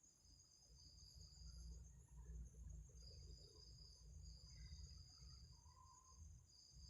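Faint night insects, likely crickets: a steady high-pitched drone with a second insect trilling in spells of a second or two at a slightly lower pitch, over a low rumble.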